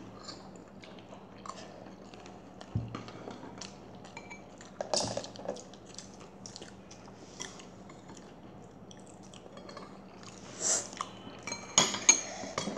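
A child chewing and biting a fried samosa, with close, crunchy mouth sounds and scattered small clicks. A few louder crunches come near the middle and the end, over a faint steady hum.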